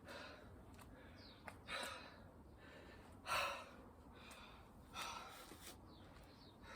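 A person breathing hard from exertion: four loud breaths about one every second and a half, the strongest a little past the middle. Faint bird chirps can be heard between them.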